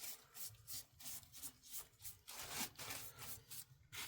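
Faint, irregular rubbing and scraping strokes, several a second, from soot being worked out of the small exhaust pipe of a diesel heater.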